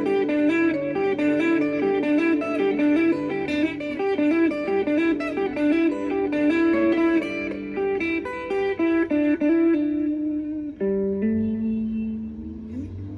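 Instrumental guitar music: a quick run of picked notes, settling a little before the end into a long held note that bends upward in pitch.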